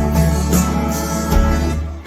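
Live rock band playing an instrumental passage between sung lines, with guitar prominent; the sound dips briefly just before the end.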